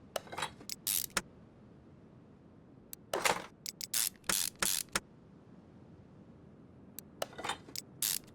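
Short clicks and clatters in three bunches: one at the start, a longer one in the middle, and one near the end.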